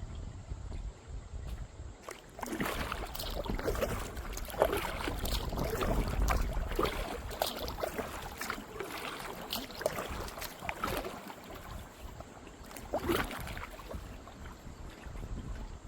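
Kayak paddle strokes: the blades dipping and splashing in the river, with water trickling off them, over a low rumble of wind on the microphone. The splashing starts a couple of seconds in and eases off near the end.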